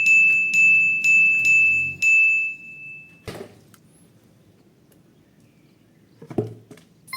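A high bell-like chime struck about five times in quick succession, each ring on the same note, the last one ringing on for about a second. A single click follows, then quiet with a couple of soft knocks near the end.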